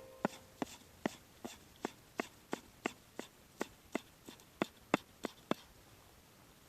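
A knife chopping steadily on a cutting board, about three even strokes a second, which stop about five and a half seconds in.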